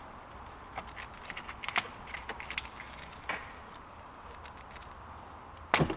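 Workshop handling noise: a scatter of light clicks and clatter in the first half, then one sharp knock near the end, over a low steady hum.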